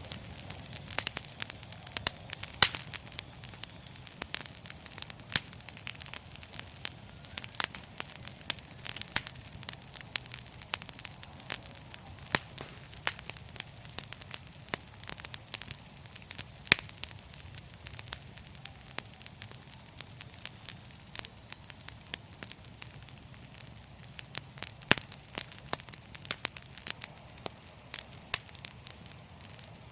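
Wood fire crackling: frequent irregular sharp pops and snaps over a low steady rumble of the flames.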